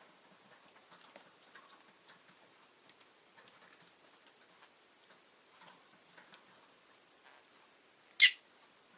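Rosy-faced lovebird giving one short, sharp call near the end, over faint scattered clicks and ticks.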